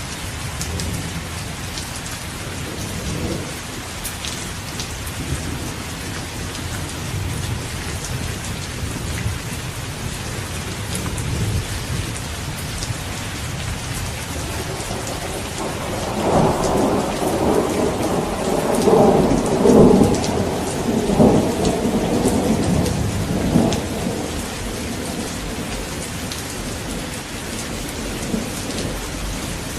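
Steady rain falling with distant thunder rumbling low; just past the middle a louder peal of thunder rolls in and rumbles for several seconds before fading back under the rain.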